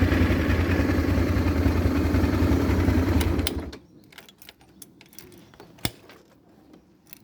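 A motor vehicle engine running with a low, pulsing rumble, then switched off and cutting out suddenly about three and a half seconds in. Faint clicks follow, with one sharp click near the end.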